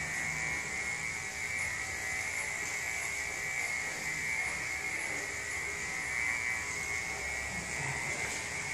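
Electric pet grooming clippers running steadily with a constant high hum as they shave a long-haired cat's coat.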